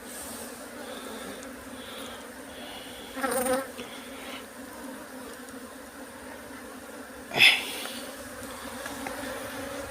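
A mass of honeybees buzzing steadily around an opened hive, with a short louder sound about three seconds in and a brief loud sharp noise about seven seconds in.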